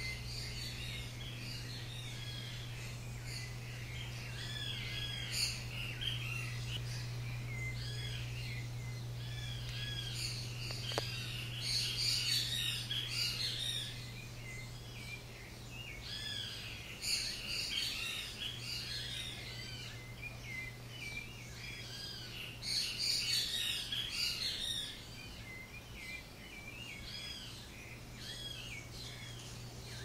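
Many small birds chirping and twittering, a dense run of short, repeated high notes with several louder flurries of chatter, over a steady low hum.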